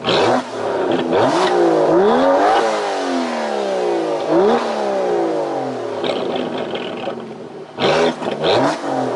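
Aston Martin DB11's 5.2-litre twin-turbo V12 accelerating hard at full throttle. The engine note climbs, drops at a quick upshift about two and a half seconds in, and climbs again. It then falls away steadily as the throttle is lifted, with a few short sharp bursts near the end.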